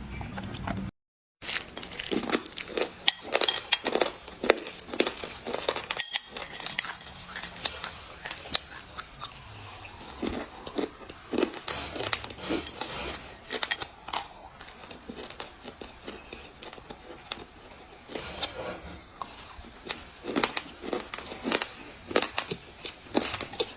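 Dry clay being crushed: crisp crunching and crackling in quick, irregular clusters, after a brief cut to silence about a second in.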